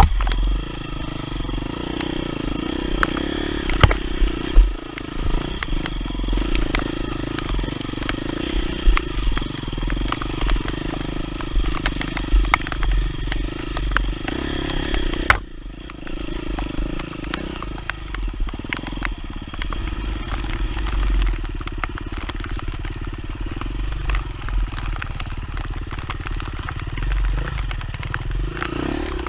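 Off-road motorcycle engine running steadily while riding a muddy trail, with many scattered clicks and knocks over it. About halfway through, the sound changes abruptly and the high whine drops out.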